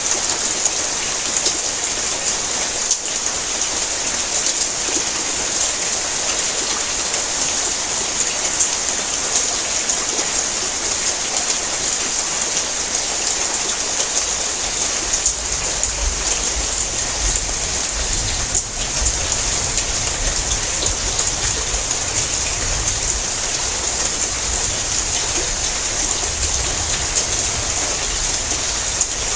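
Heavy rain pattering on a tin roof: a steady, dense hiss of drops. A low rumble joins about halfway through.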